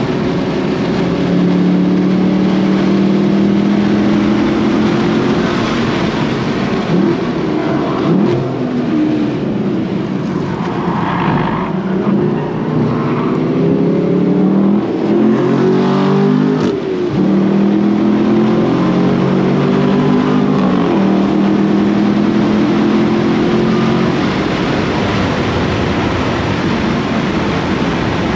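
Chevrolet Camaro SS 1LE's 6.2-litre V8 heard from inside the cabin under hard track driving, running at high revs. Around the middle its pitch drops and climbs again as the car slows for corners, then it pulls steadily before a brief dip near the end.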